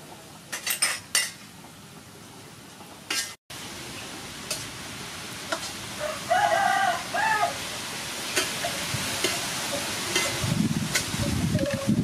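Beef sizzling and frying in a wok as a metal spatula stirs it, scraping and clacking against the pan more busily near the end. A rooster crows twice about halfway through.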